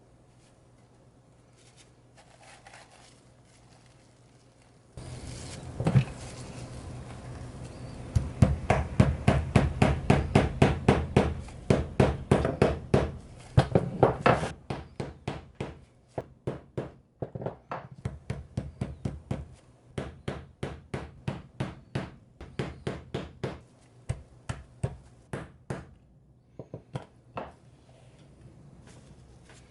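Small hammer tapping on wood, quick even strokes about two or three a second, with a steady hiss underneath for the first few seconds of the tapping.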